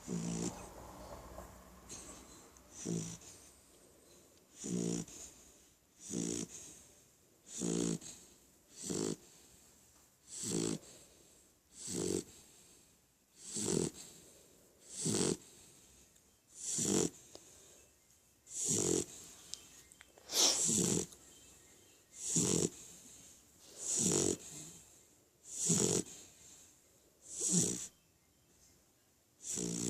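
Beagle puppy snoring, one short snore with a breathy hiss about every second and a half to two seconds.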